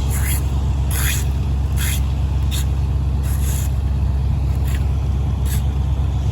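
A heavy engine running steadily, with short, sharp scraping or clacking sounds coming about once every half second to a second.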